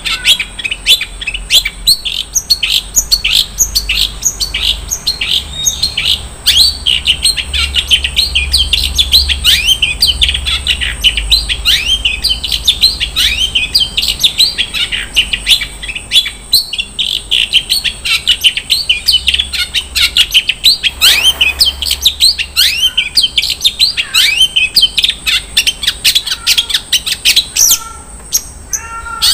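Long-tailed shrike (cendet) singing a fast, unbroken stream of short sweeping chirps, a medley of mimicked song fill. One brief harsh rasp comes about two-thirds of the way through.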